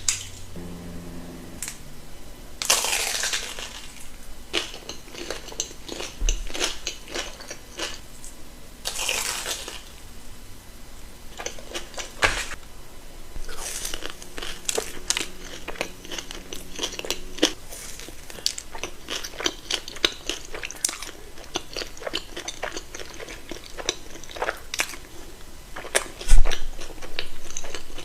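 Close-up crunching and chewing of a crispy-coated, deep-fried Korean corn dog, with dense crackling bites about three seconds and nine seconds in. A loud thump near the end.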